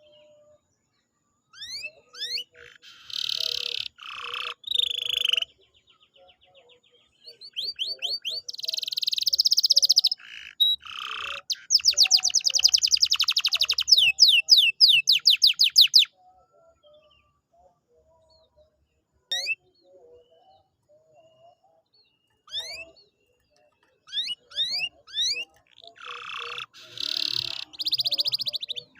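Domestic canary singing in phrases of fast trills and quick rising sweeping notes, with a dense rapid roll about halfway through and a few seconds of near pause before the song picks up again.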